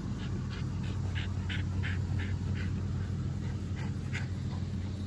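American Bully puppy panting, quick, even breaths about three a second, tired out from running after a ball, over a steady low hum.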